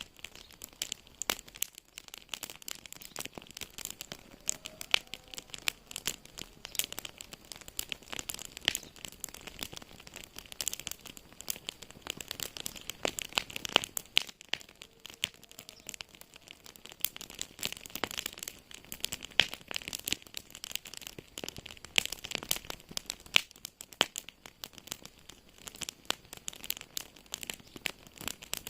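Wood fire crackling in a fireplace: a dense, irregular run of small snaps and pops, with sharper, louder pops scattered throughout.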